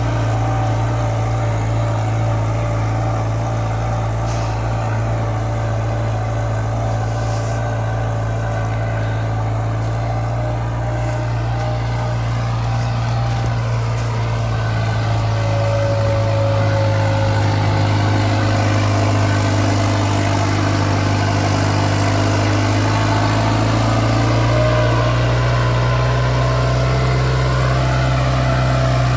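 New Holland 5630 4WD tractor's diesel engine running steadily under heavy load while pulling two harrows, a 16-row and a 20-row, through the soil. It gets a little louder from about halfway through.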